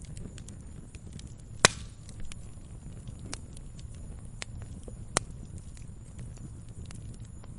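Wood campfire burning: a low steady rumble of flames with scattered small crackles, and two loud sharp pops, one just under two seconds in and another about five seconds in.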